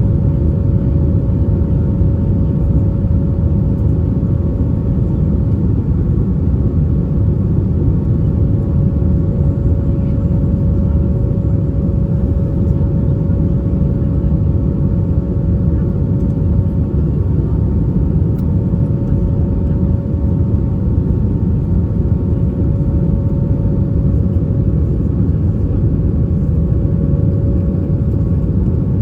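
Cabin noise of an Airbus A320-232 climbing after take-off: a steady, loud roar from its IAE V2500 engines at climb power, with two steady tones on top of it. The higher tone stops about four-fifths of the way through.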